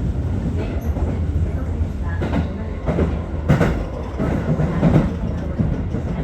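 Aichi Loop Railway 2000 series electric train running, heard from on board: a steady low rumble with several sharp knocks from the wheels passing over the track.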